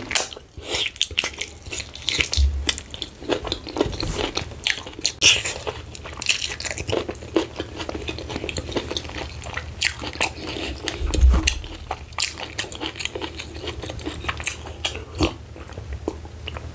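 Close-miked chewing of a mouthful of fufu with ogbono soup: a steady run of wet, sticky mouth clicks and smacks. Two dull low bumps sound about two and a half seconds in and about eleven seconds in.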